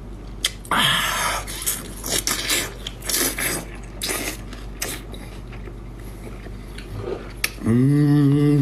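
A person eating seafood: biting and chewing, with a run of short sharp crunches and clicks and a louder crunchy stretch about a second in. Near the end a person's voice holds one steady note for about a second.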